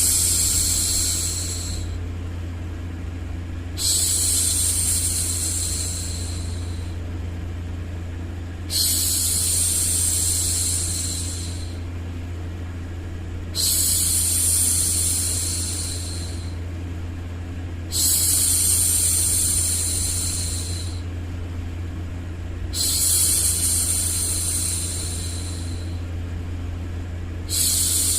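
A woman's voice shushing ('shhh') over and over, a long hushing sound every four to five seconds that starts strongly and fades away. It sits over a steady low hum of white noise.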